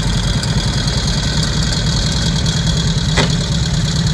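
Vehicle engine idling with a steady low rumble, and a single sharp click about three seconds in.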